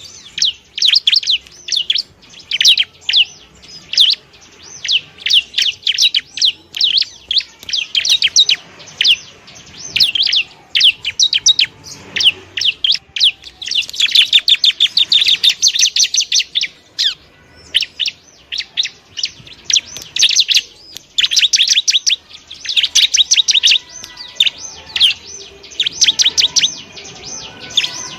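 Bar-winged prinia (ciblek) singing: rapid runs of high, sharp chirps and trills, in bursts of a second or two with short pauses between them.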